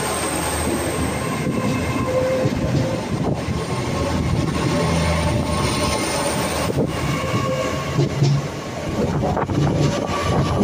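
Passenger train pulling away from a station: a steady engine-and-rail rumble with a faint whine, broken by a few sharp knocks from the wheels.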